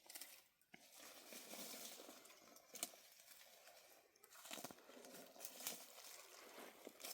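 Faint rustling and crinkling, with a few sharp clicks, the loudest about three seconds in.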